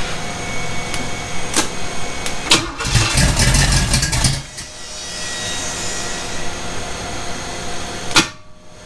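Chevy 350 small-block engine with a Comp Cams solid-lifter cam on a test stand, being cranked on its first start attempts with the ignition timing not yet set. It catches about three seconds in, runs for about a second and a half, then cuts out. There is a loud sharp click near the end.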